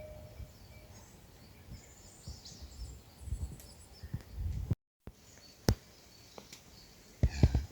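Outdoor rural ambience with faint high bird chirps. After a brief cut, a few sharp clicks or knocks follow, the loudest cluster near the end.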